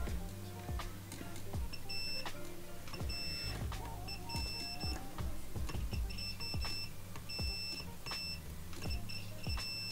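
Digital multimeter's continuity beeper giving a run of short high beeps that start about two seconds in, stopping and starting as the probe tips tap on and off the graphics card's capacitor pads, with light clicks of the probes. The beeps mark continuity to ground on the ground side of each input capacitor. A steady low hum lies underneath.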